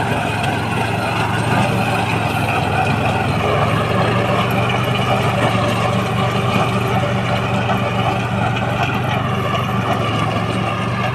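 Engine of a 12 HP Swaraj mini tractor running steadily.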